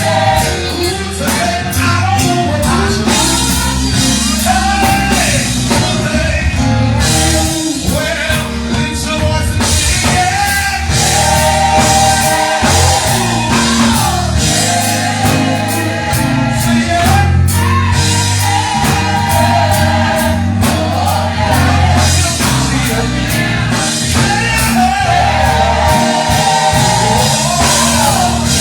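Live gospel music: voices singing long, sliding melodic lines over a band with bass and a steady drum beat, loud throughout.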